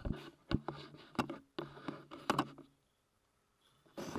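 Handling noise as a camera is set up: a few sharp knocks and clicks over a low hum, cutting off to silence a little over halfway through.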